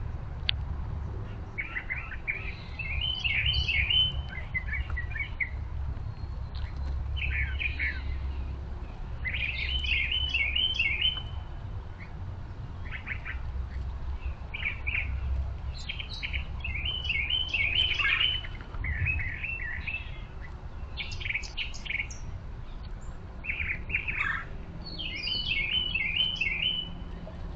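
Small songbirds singing and chirping in short, quick phrases every couple of seconds, over a low steady rumble.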